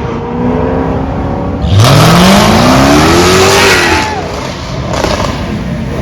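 A high-performance car engine accelerating hard: after a lower engine note, it comes in loud about two seconds in and its pitch climbs steadily for about two seconds before the throttle eases off.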